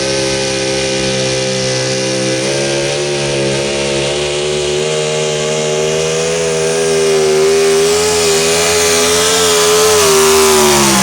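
Super stock 4x4 pulling truck's engine held at high revs under full load during a pull, its pitch wavering slightly as the truck fights the sled. It gets louder about seven seconds in, and the revs start to drop right at the end.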